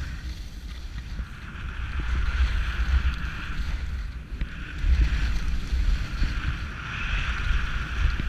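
Wind buffeting the microphone, with the steady hiss of skis sliding over snow.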